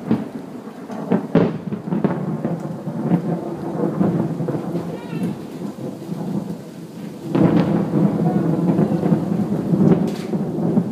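Thunder during a thunderstorm: sharp popping cracks right at the start and again about a second and a half in, then a rolling low rumble that swells louder about seven seconds in. Rain can be heard falling.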